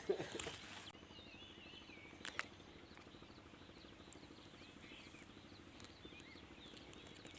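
Faint birdsong: short chirping calls repeating throughout, with one brief click about two seconds in.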